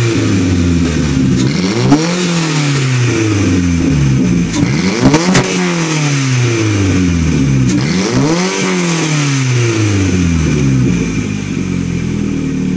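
Saturn Sky's four-cylinder engine running with no exhaust fitted, open and unmuffled, revved three times in quick blips, each rising sharply and falling slowly back toward idle. A few sharp cracks come at the peaks of the revs.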